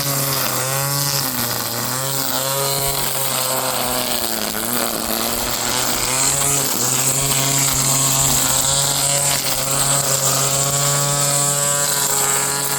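Ryobi 18V cordless string trimmer running, a steady motor whine whose pitch sags briefly a few times as the spinning line cuts into grass.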